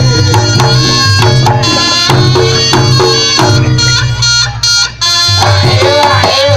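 Loud Reog Ponorogo accompaniment music: traditional drums beaten in a quick repeating pattern under pitched melodic and percussion tones, with a brief drop in loudness about five seconds in.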